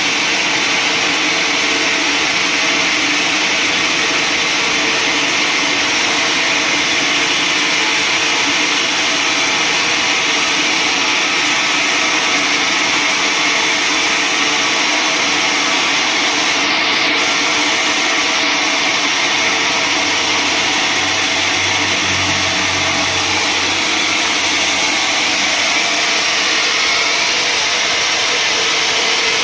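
Sawmill saw running steadily: a loud, even mechanical noise with no breaks.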